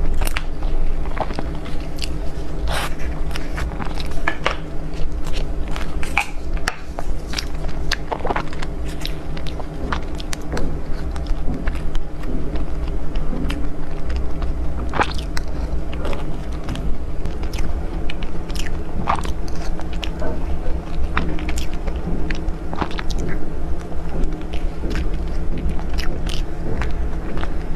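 Close-miked eating of desserts: biting and chewing, with many short, sharp crunches and mouth clicks scattered throughout, over a steady low hum.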